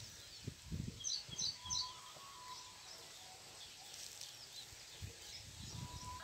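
Quiet outdoor background: a bird chirps three times in quick succession between one and two seconds in, with a few soft low knocks in the first two seconds.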